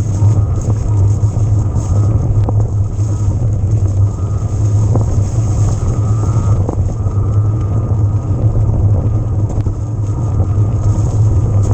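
Steady low rumble of an electric mountain bike being ridden, heard from a camera on the bike or rider, with a few short clicks and rattles scattered through.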